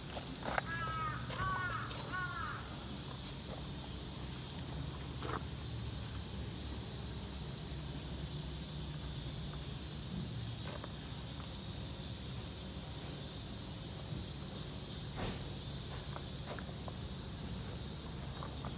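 A bird calling three times in quick succession about half a second in, over a steady high-pitched background drone and a low hum, with a few faint footsteps on gravel later on.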